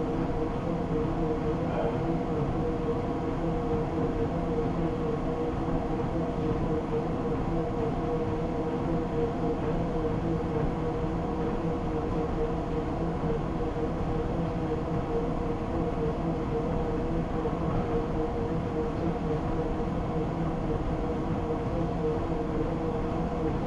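Treadmill running steadily: an even motor-and-belt hum with a fixed whine, unchanging throughout.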